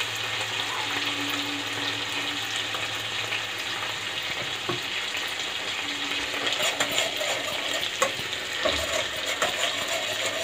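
Chicken breasts sizzling steadily in a nonstick frying pan in a honey-garlic sauce. From about six seconds in, a spatula scrapes and clicks against the pan as it bastes the chicken.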